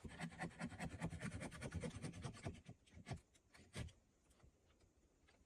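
Rapid light tapping and scraping on wood, about eight to ten quick ticks a second, thinning out to a couple of single knocks and stopping about four seconds in.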